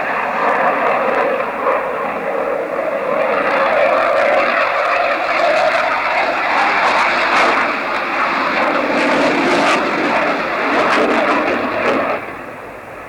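Loud, steady noise of an aircraft's engines during a flying display, with some crackle in the middle, easing off about twelve seconds in.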